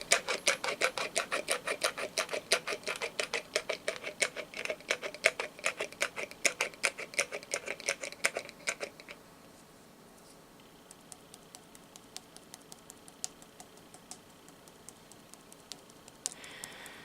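Rapid tapping on a candle jar, about six taps a second, stopping about nine seconds in, followed by a few faint, scattered taps.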